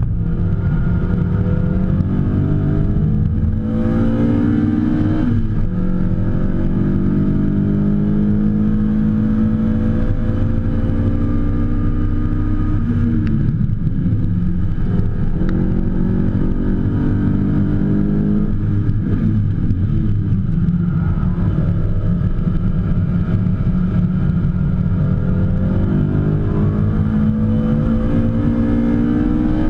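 BMW E30 M3's four-cylinder engine heard from inside the cabin under hard driving on a track lap, the revs climbing for several seconds at a time and dropping back about five times between climbs.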